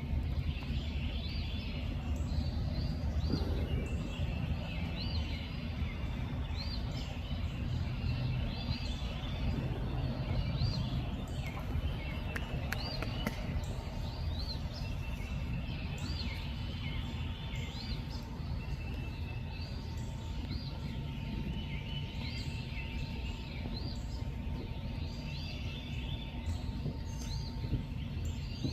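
Night-time outdoor ambience: many high, short chirps repeating over and over from small animals, over a steady low rumble. A faint steady hum joins about two-thirds of the way through.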